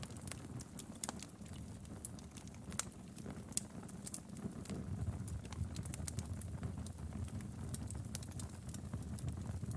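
Wood fire burning in a fireplace: a low steady rumble of flames with irregular sharp crackles and pops, a couple of louder pops near the middle.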